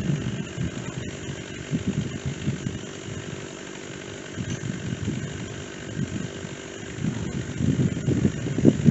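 Stihl two-stroke chainsaw running, its engine note swelling and falling unevenly and getting louder near the end.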